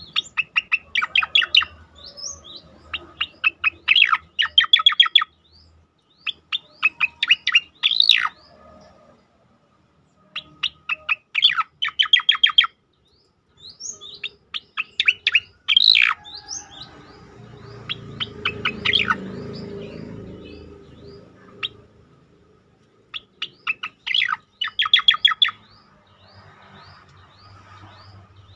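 Cica-koreng (striated grassbird) singing its rapid-fire 'tembakan' song: phrases of fast, sharp repeated notes mixed with short rising whistles, broken by brief pauses. A low rumble rises under the song about two thirds of the way through.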